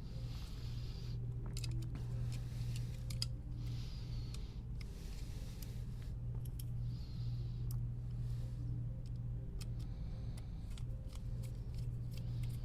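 Scattered light clicks and small scrapes from handling the opened PS5 DualSense controller's plastic parts. A steady low hum runs underneath, with soft hissing now and then.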